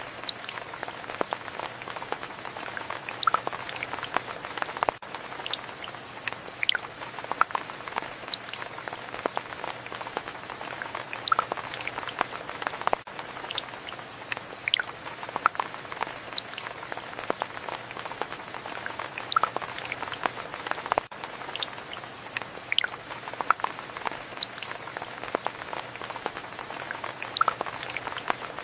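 Rain falling, a steady hiss with many separate drops tapping close by at irregular moments. The same stretch of rain repeats about every eight seconds.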